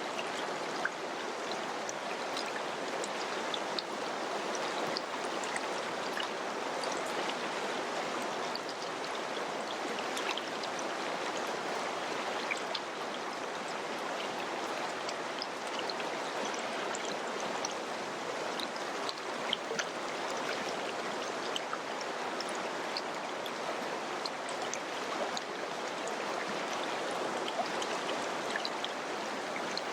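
Mountain river rushing steadily over rocks, with many small splashes and droplet ticks through it.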